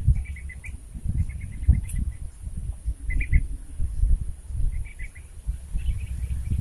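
Small birds chirping in short, rapid trills, several bursts a few seconds apart, over a loud, uneven low rumble and bumping on the microphone.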